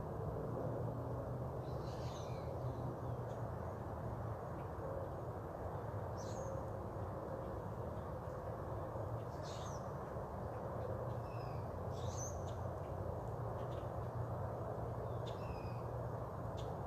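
Birds calling: about four brief, high calls sweeping downward, a few seconds apart, with fainter short chirps between them, over steady low background noise.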